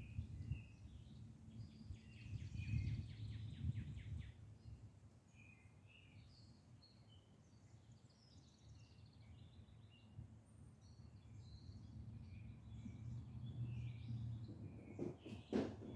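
Songbirds chirping and calling over a steady low rumble, with one rapid trill about two to four seconds in. Two short knocks near the end.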